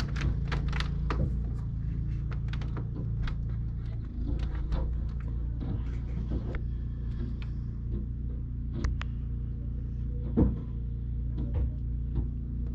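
Snowblower engine running steadily at a low hum, with many scattered sharp clicks and knocks over it, one louder knock near the end.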